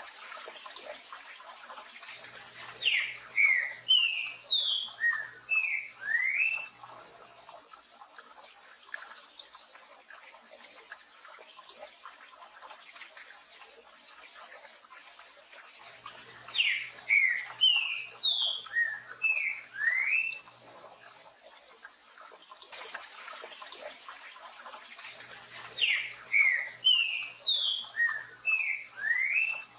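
Green-winged saltator (trinca-ferro) singing its 'tio joão pedro boi' song three times, each phrase a quick run of about eight clear slurred whistles lasting about four seconds. A steady hiss of rain runs underneath.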